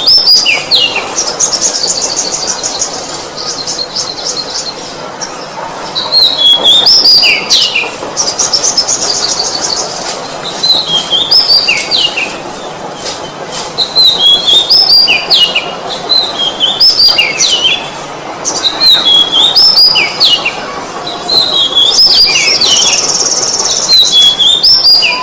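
Oriental magpie-robin (kacer) singing loudly in repeated bouts of clear whistles that slide downward, mixed with rapid high trills, each bout a couple of seconds long and coming every few seconds.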